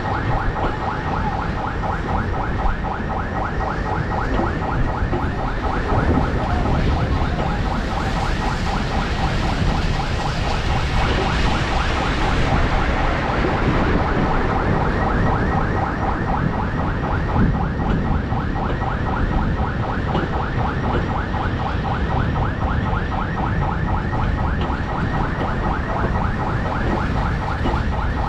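Passenger train running slowly along the tracks: a fast, even, rhythmic rattling squeal over a steady low rumble, with a brief swell of hiss about halfway through.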